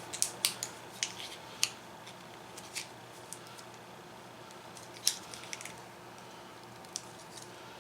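Small sharp clicks and taps of parts being handled during the rebuild of a headlight motor, bunched at the start, again about five seconds in and once more near the end, over a faint steady hum.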